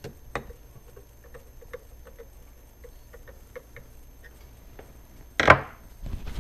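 Small screw being turned into a Model A horn's cover with a screwdriver, giving a run of light, even clicks, about three or four a second. A louder single knock comes near the end.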